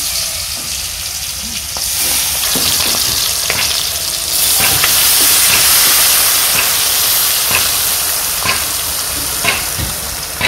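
Marinated chicken pieces sizzling loudly in hot oil in a pan, just after going in. The sizzling swells about two seconds in and again around the middle, with occasional light clicks of stirring.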